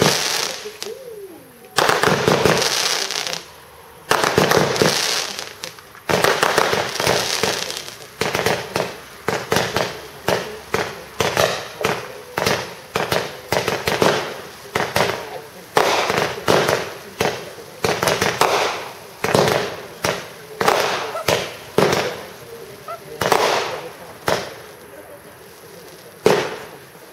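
Fireworks going off: shells bursting with sharp bangs, the first few each trailed by a long crackling hiss, then a fast run of launches and bursts about once a second, thinning to a few single bangs near the end.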